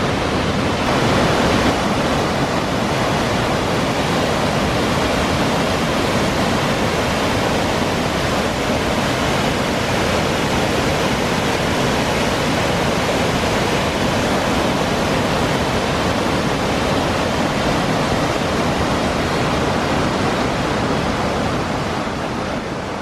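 Falls of Measach waterfall plunging into the gorge: a loud, steady rush of falling water that starts to fade right at the end.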